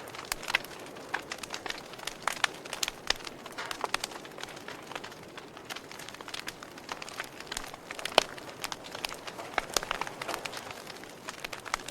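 Campfire crackling: irregular sharp pops and snaps, several a second, over a soft steady hiss, with a louder snap about eight seconds in.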